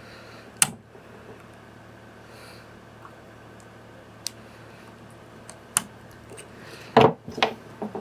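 Scattered sharp metallic clicks and clinks of a new circlip and fork parts being handled and fitted, with one loud click about half a second in and a louder cluster near the end, over a steady low hum.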